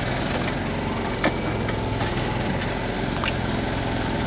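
An engine running steadily at idle, with a couple of faint clicks.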